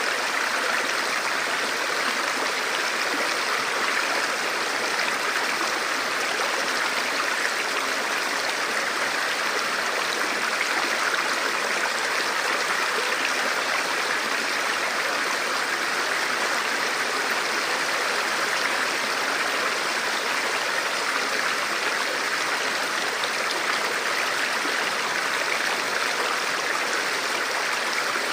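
A forest river flowing over rocks: a steady, even rush of water.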